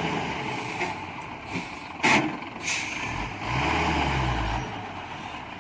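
Hyundai 5-ton dump truck's diesel engine revving hard while the truck is stuck, rising about three and a half seconds in and holding for about a second. There is a short, sharp hiss about two seconds in.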